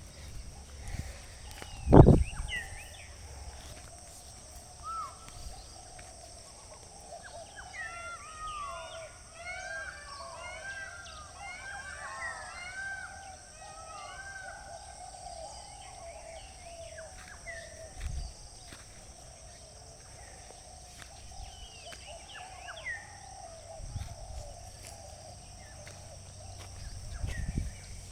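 Many small birds chirping, busiest in the middle, over a steady high-pitched drone. There is one loud thump about two seconds in and a few fainter knocks later.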